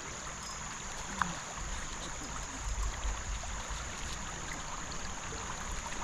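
Creek water flowing steadily, with a thin, steady high hiss above it. There is a single short click about a second in and a low rumble in the middle.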